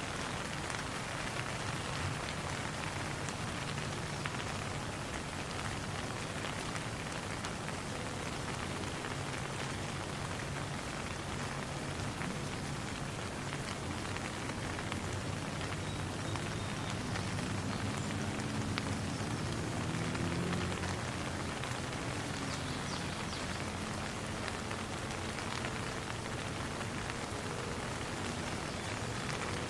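Steady rain falling, an even hiss of drops. A faint low wavering tone comes up for a few seconds in the middle.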